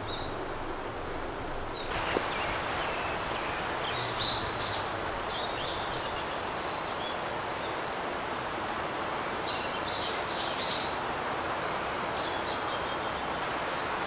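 Outdoor ambience of a steady hiss, with a bird giving short high chirps in small clusters about four seconds in and again around ten to twelve seconds.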